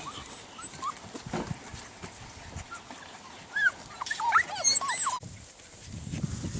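A puppy whimpering: a few short, high-pitched whines, then a quick run of them about three and a half seconds in that cuts off abruptly just after five seconds.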